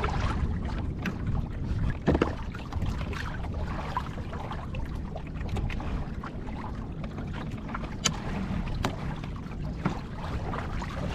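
Water sloshing against a sailing kayak's hull with wind buffeting the microphone, and a few short sharp knocks or clicks from the boat's fittings.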